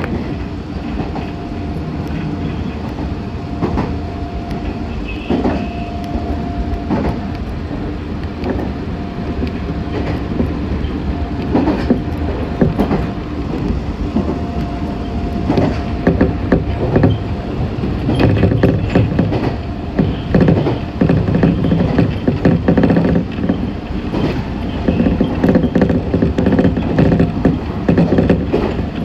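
Meitetsu 6500 series electric train running, heard from inside the car: steady rumble of wheels on rail, with a thin steady whine through the first half. Clatter and knocks grow busier in the second half.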